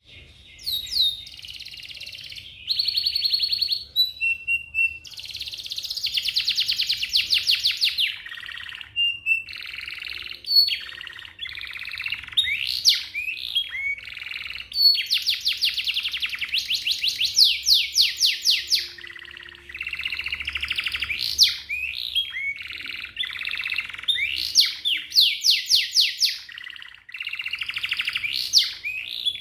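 Domestic canary singing a long, fast song: rapid rolling trills alternating with quick rising and falling whistled notes, in phrases of a second or three with brief pauses between them.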